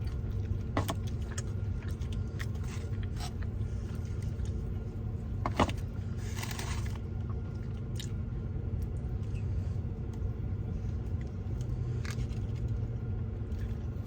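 Steady low rumble of a car cabin, with a few short crisp crunches and clicks from chewing a hard-shell taco; the sharpest click comes about halfway through.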